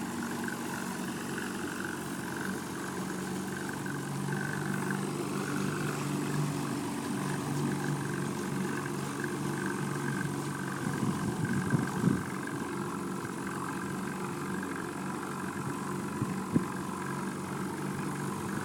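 Boat's outboard motor running steadily at low speed, with a couple of brief knocks past the middle.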